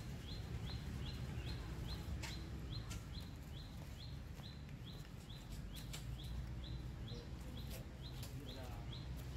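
A bird chirping steadily, one short rising note repeated a little over twice a second, over a low steady outdoor rumble. A few sharp clicks fall in between.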